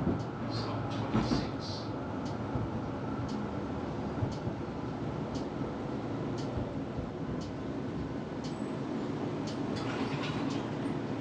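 Tram running along the track, heard from inside the passenger cabin: a steady rumble with faint light clicks about once a second.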